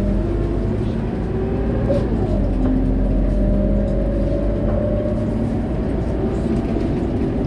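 Scania K230UB single-deck bus engine and drivetrain running under way, heard from inside the cabin: a steady low rumble with tones that slowly rise and fall in pitch.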